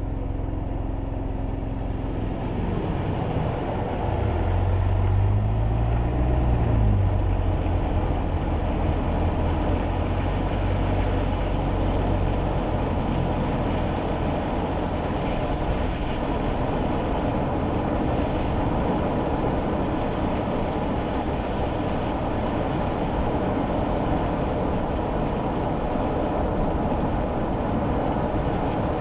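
Kei car driving on a wet road, heard from inside the cabin. In the first several seconds the engine note rises and falls as it picks up speed, then a steady hiss of tyre and road noise takes over.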